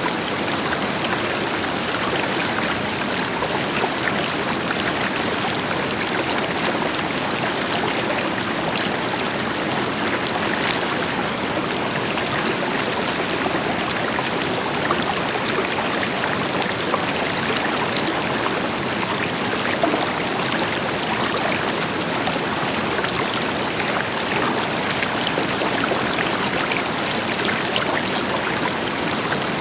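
River water flowing steadily over rocks, a continuous rushing with small splashes and gurgles throughout, set against the deeper rush of a waterfall.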